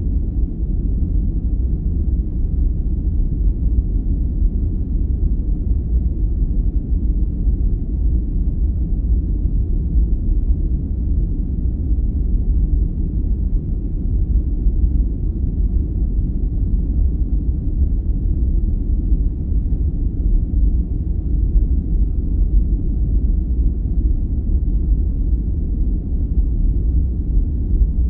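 Sleep-aid noise track: a steady, deep, muffled rumble with nothing in the upper range and no change in level.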